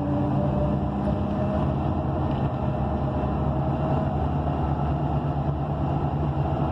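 ENC EZ Rider II transit bus's Cummins Westport ISL G natural-gas engine running steadily, heard from inside the cabin as a hum of several tones over a rumble. A higher tone stops just after the start.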